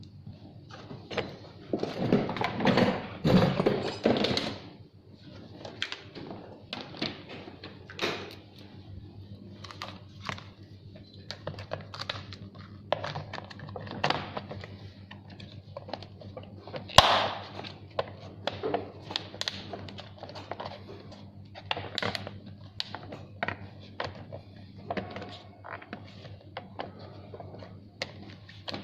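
Plastic and metal parts of a kids' electric ride-on truck being handled and fitted during assembly: irregular clicks, taps and knocks, a louder stretch of handling noise a couple of seconds in, and one sharp snap about 17 seconds in. A steady low hum runs underneath.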